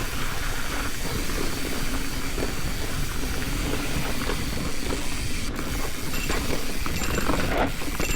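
Mountain bike rolling downhill on a dirt trail: a steady rush of wind and tyre noise, with a few sharp rattling clicks from the bike in the second half.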